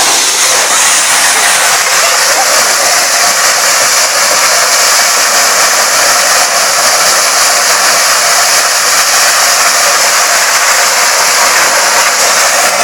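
Tractor-driven Surjeet maize sheller running: a loud, steady rushing noise from the machine at work.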